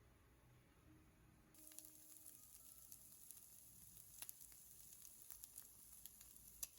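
Faint sizzling of food frying in oil in a pan, with scattered crackles and pops; the sizzle starts about a second and a half in.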